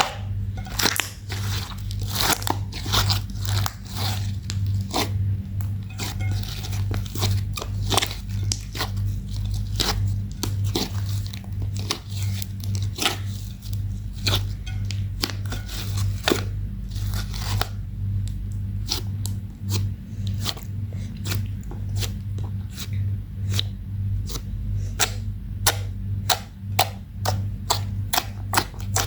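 Slime being mixed and squished by hand, giving many irregular sticky popping and crackling clicks, over a steady low hum.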